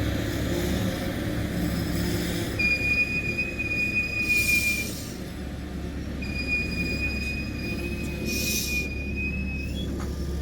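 A train running over the rails with a steady low rumble, its wheels squealing twice on the rails: two long, high, steady squeals of a few seconds each, a couple of seconds apart.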